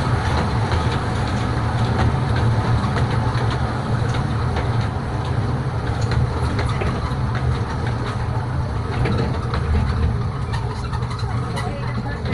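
Kurobe Gorge Railway open-car train running slowly on its narrow-gauge track: a steady low rumble with scattered light clicks and rattles from the wheels and car fittings.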